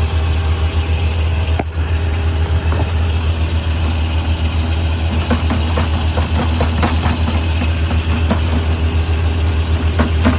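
Engine running steadily at idle, a low drone, with light clicks and rattles over it in the second half.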